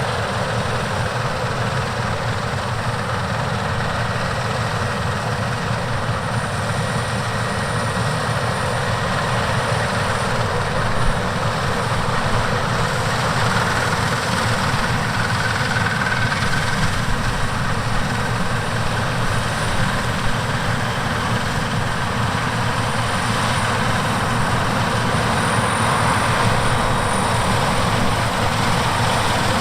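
Heavy diesel harvest machinery running steadily with a continuous low engine hum and mechanical noise, slightly louder toward the end.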